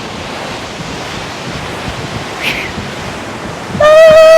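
Steady rushing of a waterfall. Near the end a loud, long held musical note comes in over it.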